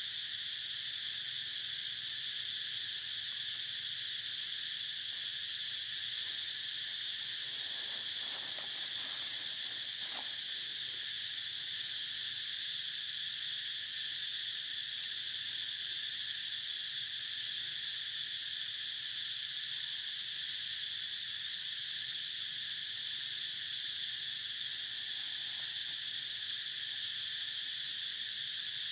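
Steady, unbroken insect chorus, a high continuous shrill drone with no pauses.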